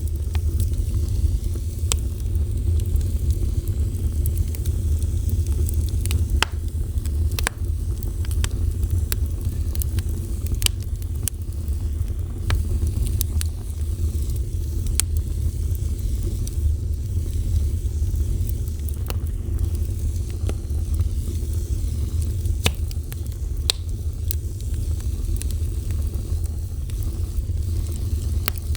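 A fire burning, with a steady low rumble and irregular sharp crackles and pops scattered through.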